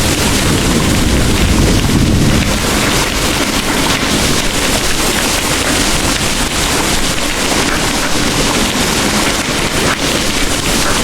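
Heavy rain pouring steadily, with the tail of a low thunder rumble dying away about two seconds in.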